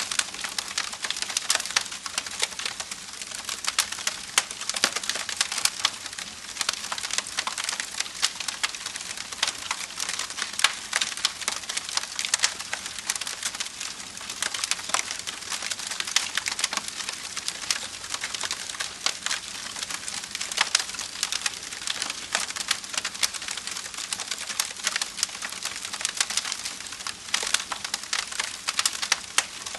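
Wood fire crackling: dense, irregular sharp pops and snaps of burning wood over a steady hiss.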